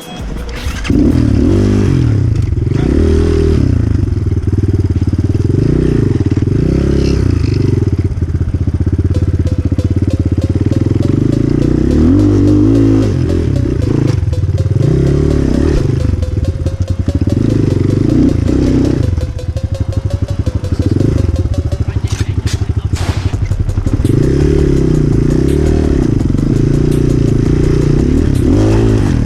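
Enduro motorcycle engine revving up and down while being ridden off-road, with a few sharp knocks from the bike near the end.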